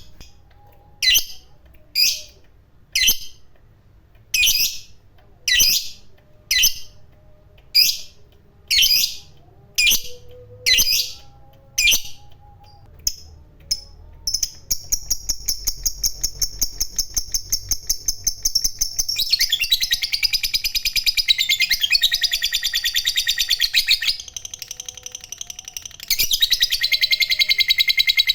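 Lovebird calling: about a dozen sharp single chirps roughly one a second, then a long, rapid chattering trill, the prized 'ngekek panjang', that runs on for many seconds, grows louder, eases off briefly near the end and starts again.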